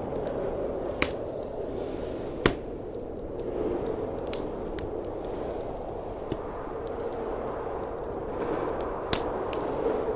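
Wood fire crackling, with a handful of sharp pops spread through it, over the steady rushing wind of a snowstorm.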